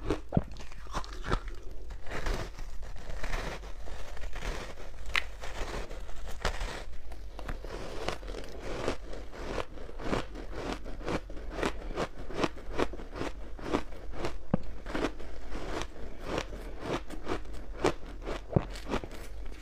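Crunchy ice coated in matcha powder being bitten and chewed close to the microphone: a dense, irregular run of sharp crunches and crackles, several a second, with a steady low hum underneath.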